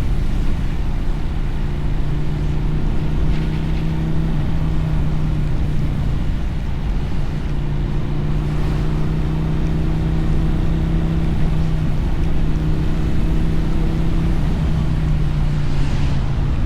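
Motorcycle engine and exhaust at a steady cruise, the engine note sagging slightly and recovering a few times, with wind noise over it.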